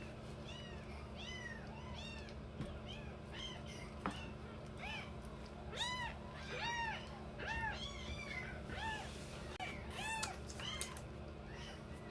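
Several young kittens mewing over and over in short, arched, high-pitched mews, some overlapping at different pitches. A faint steady hum runs underneath, and there is a single click about four seconds in.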